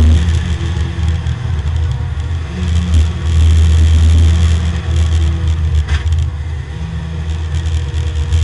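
Porsche 924 race car's engine heard from inside the cabin, running loud as the car slows from about 105 to 55 mph, its note shifting a few times as it comes off the power.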